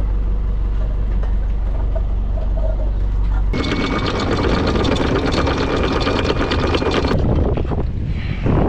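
Sailboat's engine running steadily with a low hum. About three and a half seconds in, the sound switches abruptly to a louder, harsher, rattling run with a faint high whine, and it changes again about seven seconds in.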